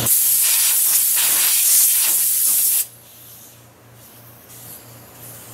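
A loud spray hiss lasting nearly three seconds and then cutting off suddenly: a blast cleaning dirt off the lawn mower engine around the oil cap.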